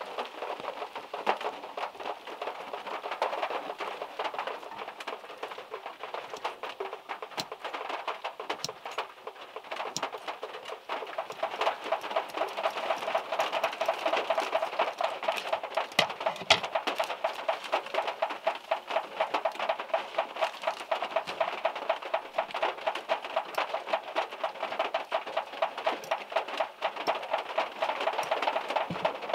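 Rain and drops from overhead trees pattering on a small car's roof, heard from inside the car. The pattering grows denser and louder about eleven seconds in.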